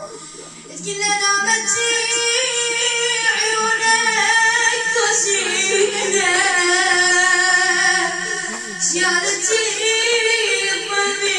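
A high solo voice singing an Arabic devotional chant with long, ornamented melodic lines. The singing resumes about a second in, after a short lull.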